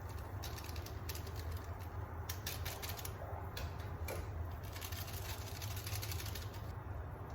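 Typing on a keyboard: a run of quick, light key clicks over a steady low hum.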